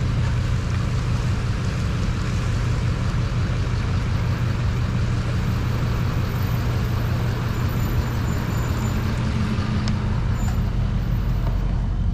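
Tow truck driving on the road: steady engine hum with tyre and road noise.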